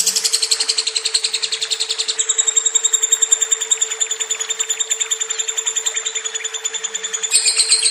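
Lovebird singing a long, unbroken rapid chattering trill at about nine or ten notes a second, its pitch shifting about two seconds in and again near the end. A steady low hum runs underneath.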